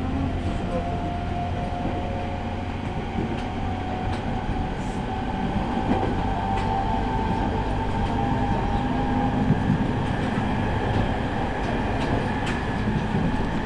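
E501 series electric train heard from inside the car while running: a steady rumble from the wheels and track, with a motor whine slowly rising in pitch as the train gathers speed. Scattered clicks come from rail joints.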